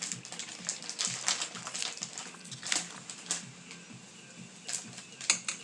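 Plastic snack bag of star-shaped corn snacks being handled and opened: irregular crinkling and crackling, with several sharper crackles in the second half.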